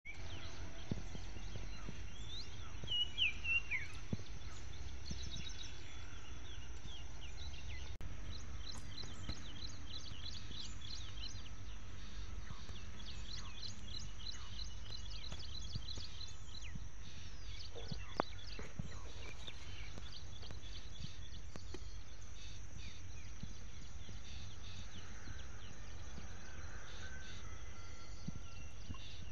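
Birds chirping over a steady low rumble. A short falling call comes about three seconds in, then many quick high chirps through the middle, thinning out later.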